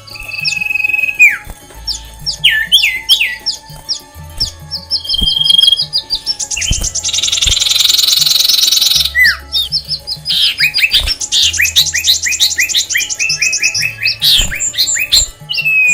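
Several songbirds in an aviary chirping and whistling over one another, with two long, fast trills, one about six seconds in and one about eleven seconds in. A low music track plays underneath.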